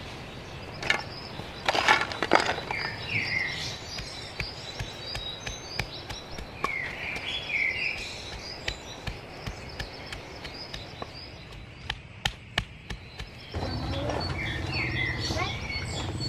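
Birds chirping in short repeated falling phrases over outdoor ambience, with scattered sharp clicks and knocks. About 13.5 s in, a steadier, louder low noise takes over.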